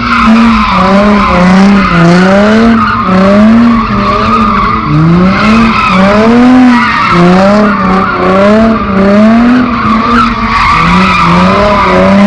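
A car doing a burnout or donuts: the engine revs up and falls back about once a second over continuous tire squeal.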